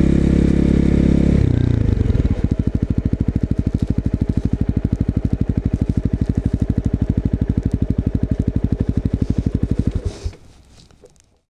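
250 cc single-cylinder motorcycle engine through an aftermarket exhaust. It runs steadily, falls back about two seconds in to an even idle thumping at roughly ten beats a second, and is switched off near the end.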